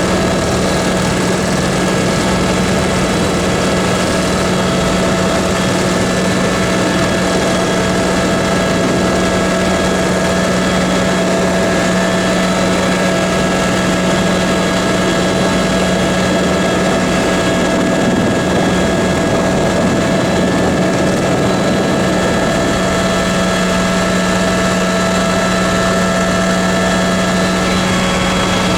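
Helicopter engine and rotor noise heard from inside the cabin in flight: a loud, steady drone with a constant hum that does not change.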